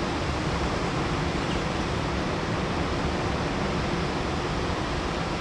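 A steady, even rushing noise spread from low to high pitches, with no tones or separate events.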